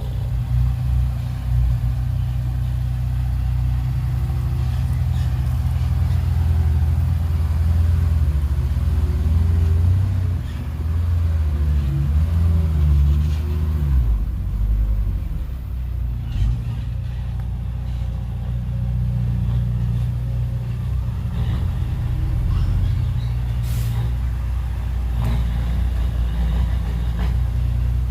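Heavy diesel engines of earthmoving machinery running under work. The engine pitch wavers up and down for several seconds, then settles into steady running.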